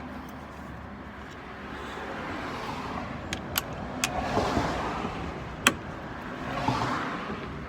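A few sharp metallic clicks and taps from tools being handled under a car while getting ready to tighten the undertray bolts, over a rushing noise that rises and falls twice.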